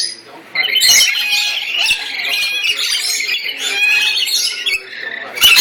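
A flock of pet birds squawking and chirping over one another in a dense, unbroken chorus, briefly thinning just at the start.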